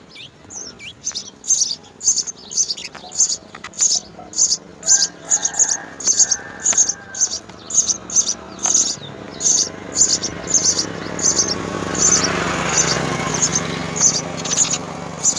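House sparrows chirping: a steady run of short, high chirps, about two a second. A rushing noise swells underneath in the last few seconds.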